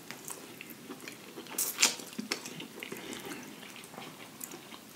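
Wet chewing and mouth sounds of two people eating forkfuls of corned beef and macaroni and cheese, with scattered small clicks and one louder sharp click a little under two seconds in.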